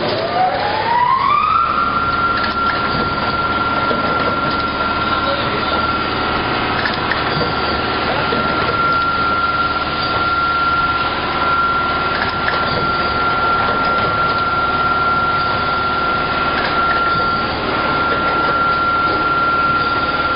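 Automatic plastic bottle-making machinery running, with a motor whine that rises in pitch over the first second and a half and then holds steady over a dense clatter of small clicks.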